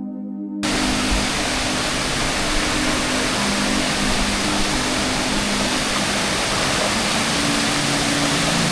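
Rushing water of a waterfall, a loud steady noise that cuts in abruptly about half a second in. Soft ambient music with sustained low tones continues under it.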